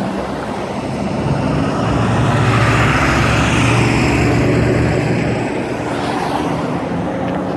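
A car engine driving past: its running note swells to its loudest in the middle and then eases off.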